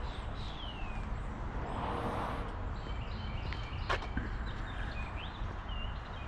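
Outdoor lot ambience: a steady low rumble of wind or distant traffic, with a few short high bird chirps and a single sharp click about four seconds in.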